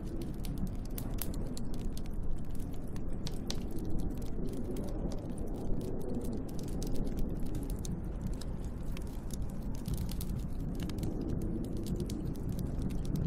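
Wood fire crackling with many sharp, irregular pops and snaps, over a low, steady rush of storm wind that slowly swells and eases.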